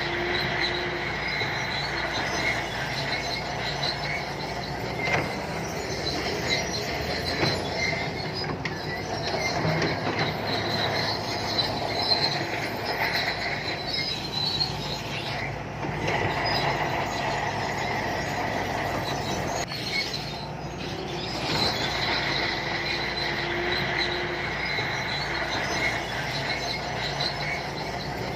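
Shantui crawler bulldozer at work: the diesel engine runs steadily under a high track squeal that comes and goes, strongest near the start and again in the last third, with occasional clanks from the steel tracks.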